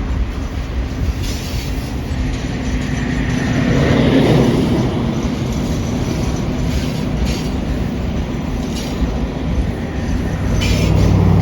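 A Norfolk Southern Triple Crown RoadRailer train rolling past: highway trailers riding on rail bogies, with a steady rumble of wheels on rail and an occasional click as wheels cross rail joints. The rumble swells about four seconds in and again near the end.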